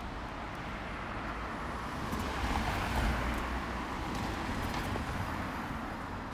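A road vehicle passing by, its engine and tyre noise swelling to a peak about three seconds in and then fading.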